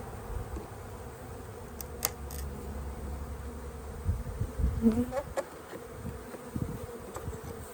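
Honey bees buzzing steadily around an open hive, with a few faint clicks.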